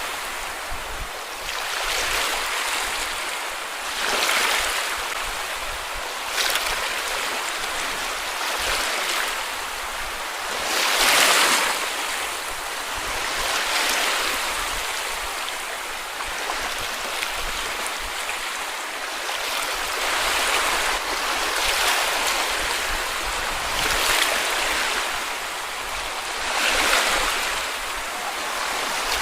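Small sea waves washing up on a beach, a steady hiss of water swelling into a soft surge every few seconds, the largest about a third of the way through.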